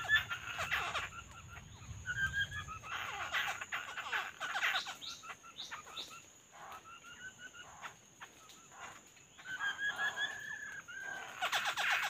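Wild birds calling in runs of short, quick chirping notes, with a lull in the middle, over a thin, steady high insect drone.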